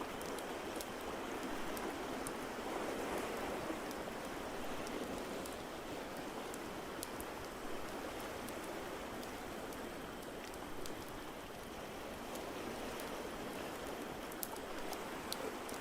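Steady rushing water ambience with scattered sharp crackles and pops of a wood fire on top.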